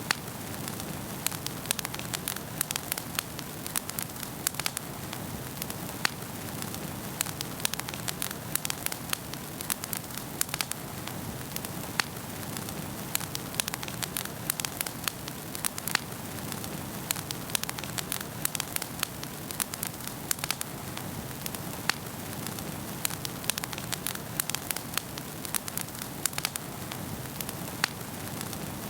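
Wood fire burning in a fireplace: a steady soft hiss with frequent irregular sharp crackles and pops.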